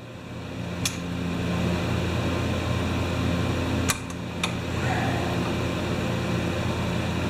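A steady mechanical hum, like a fan or blower running, that swells over the first couple of seconds and then holds even. Three light, sharp clicks come through it, about a second in and twice near the middle.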